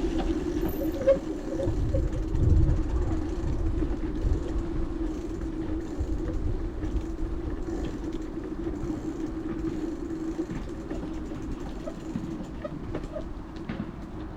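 Bicycle riding noise: a steady hum from the tyres rolling on the road, with low rumble from wind buffeting the microphone that is strongest in the first few seconds, then slowly getting quieter.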